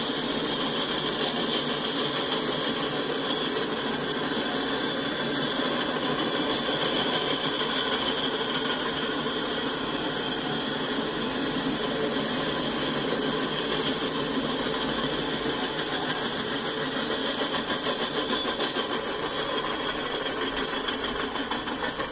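Freight train cars rolling past: a steady rumble and clatter of steel wheels on the rails. The loudness pulses in a quick rhythm in the last few seconds.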